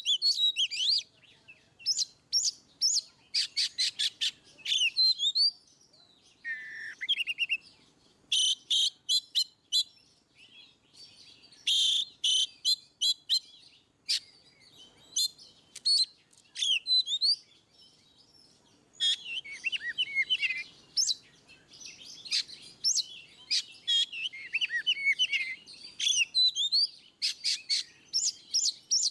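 Oriental magpie-robin (kacer) in full, free song. It sings varied high-pitched phrases, fast trills of rapidly repeated notes alternating with twisting whistled slurs, with brief pauses between phrases.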